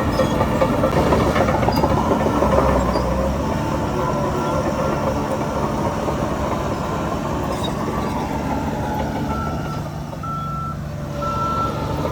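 Heavy diesel earthmoving machinery running with a back-up alarm beeping. The beeps come at about one a second, at the start and again near the end, over a steady engine rumble that eases off a little near the end.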